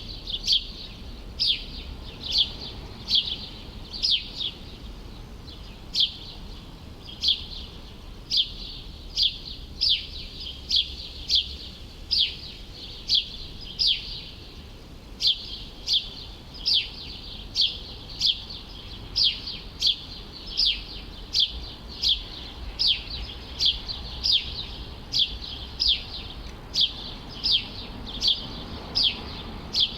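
A songbird repeating one short, high, falling chirp over and over, roughly every half second to a second, over a faint low city rumble.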